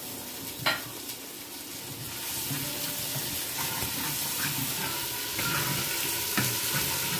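Onions, masala and ginger-garlic paste sizzling in hot oil in a handi pot, stirred with a wooden spatula. There is a sharp knock under a second in, the sizzle grows louder about two seconds in, and the spatula scrapes and clicks against the pot.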